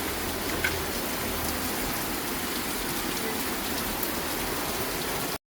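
Steady rain falling on a surface, an even hiss with scattered droplet ticks, cutting off abruptly near the end.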